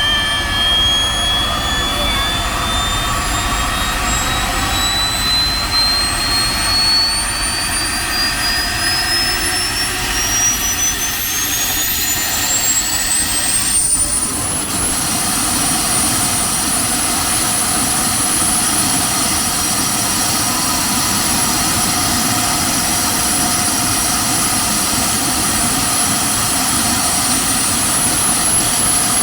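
Aircraft auxiliary power unit, a small gas turbine mounted in a minibus, running. Its high turbine whine climbs steadily in pitch for about fifteen seconds as it speeds up, then holds a steady high whine over a constant rush of exhaust.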